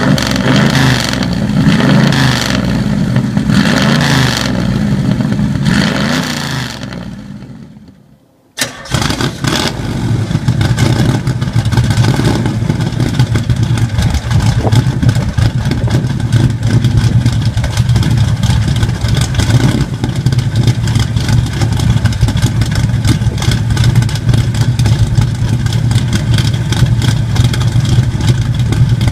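1968 Camaro SS's 350 V8 running with a rhythmic pulse, which fades away; about eight and a half seconds in the engine starts abruptly and settles into a steady, deep idle through its exhaust.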